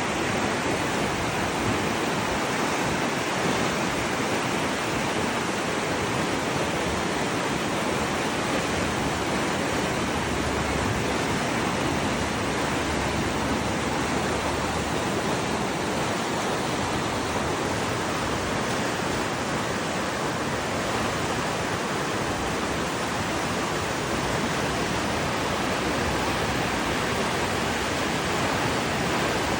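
Steady rushing water, an even unbroken roar with no change in level.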